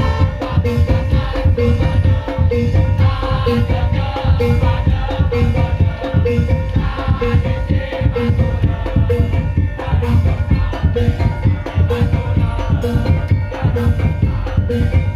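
A Madurese ul daul (tong-tong) percussion ensemble playing loud, driving music: heavy bass drums under repeating tuned percussion notes and rattling shakers in a steady beat.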